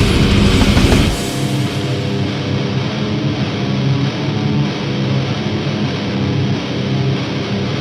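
Heavy metal music with distorted electric guitars. The drums and low end play densely for about a second, then cut out, leaving the guitars ringing on sustained chords.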